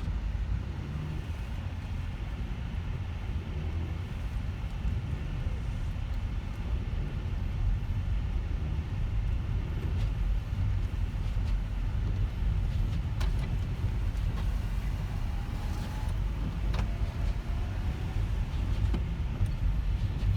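Moving car heard from inside the cabin: a steady low rumble of engine and tyre noise on the road.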